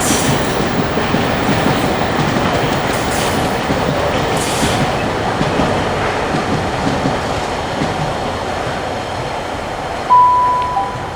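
A Class 66-hauled container freight train rolling past steadily, the rumble of the wagons easing slightly. Near the end a short steady electronic tone sounds.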